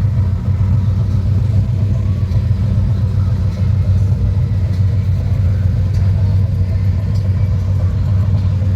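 Car engine running steadily, a continuous low rumble.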